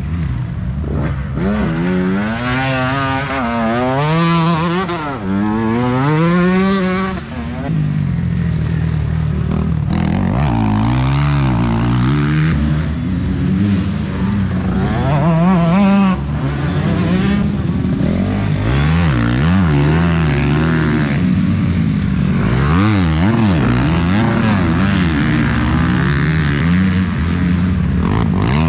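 Motocross bikes racing on the track, engines revving hard and easing off, with several engine notes overlapping and sweeping up and down in pitch.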